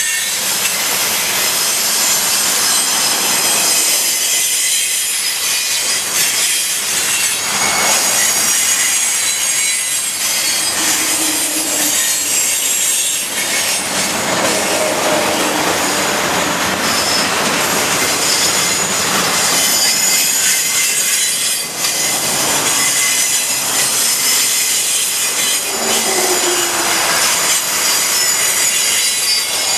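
Freight cars of a mixed freight train rolling past close by: a loud, steady rush of steel wheels on rail, with brief wheel squeals a few times.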